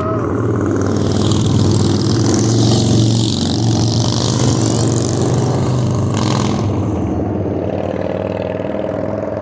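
A motor vehicle with a deep, steady engine note drives past close by, with a rushing hiss of road noise; it grows louder to a peak about three seconds in, then slowly fades.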